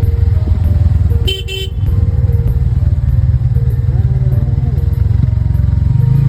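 Motorcycle engine running steadily under way, with a short horn toot about a second and a half in.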